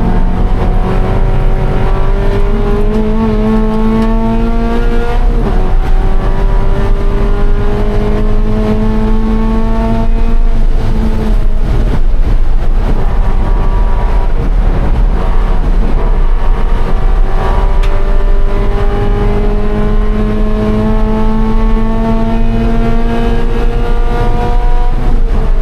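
Scion FR-S's flat-four engine pulling hard under race acceleration, its pitch climbing steadily through long pulls and dropping sharply about 5 s in, around 11 s and near the end as it changes gear. A constant low rumble of road and wind noise runs underneath.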